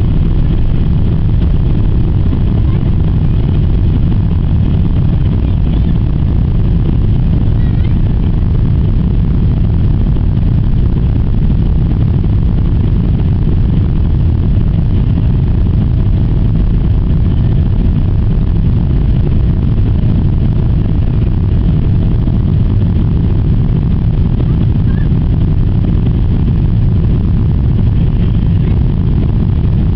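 Steady, loud low rumble of a Boeing 777-300ER's jet engines and airflow heard inside the cabin after take-off, with a faint steady tone in the middle.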